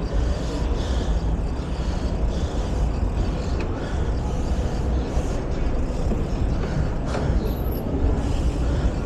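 Steady low rumble of road and traffic noise heard while riding, with wind on the microphone, and a faint click about seven seconds in.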